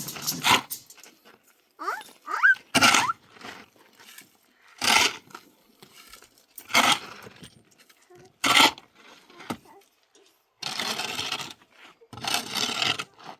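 Repeated short gritty scrapes, about one every two seconds, with two longer scrapes near the end, from a tool working sand-and-cement mortar. A brief gliding cry sounds a couple of seconds in.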